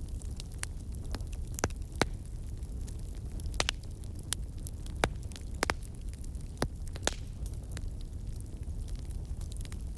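Fire crackling: a steady low rumble and hiss of burning, with irregular sharp pops and snaps, the loudest about 2, 5 and 7 seconds in.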